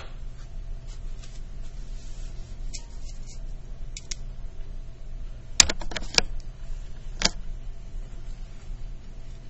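Light clicks and taps from handling straight pins and fabric, with a small cluster of sharper clicks a little past halfway and one more a second later, over a steady low hum.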